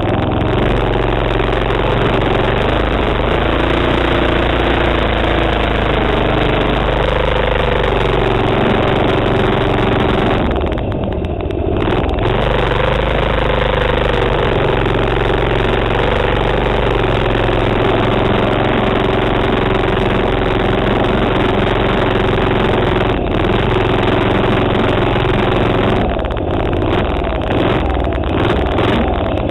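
Manco minibike's 3.5 HP Tecumseh single-cylinder four-stroke engine running under throttle, its pitch rising and falling as it revs. It eases off briefly about a third of the way in and again near the end.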